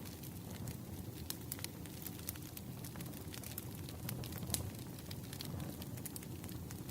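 Wood fire burning, a steady low rumble of flames with irregular crackles and pops; one pop about four and a half seconds in is louder.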